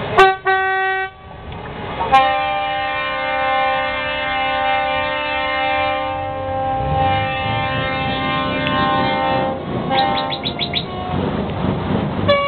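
Truck air horns blowing: a short blast about a second in, then a long, steady multi-tone horn chord held for several seconds, then a quick series of short toots near the end.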